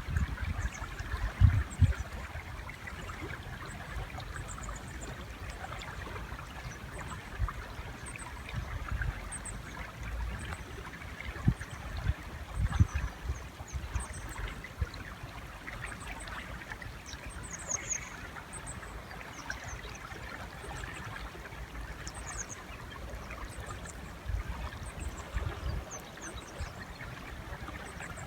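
River water flowing steadily, with short high bird chirps scattered throughout and a few dull low thumps near the start and around the middle.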